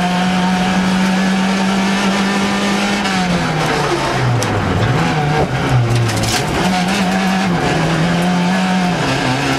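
Suzuki Swift rally car's engine heard from inside the cabin under hard driving, held at high revs, then falling sharply about three seconds in and climbing back, with a second dip near the end.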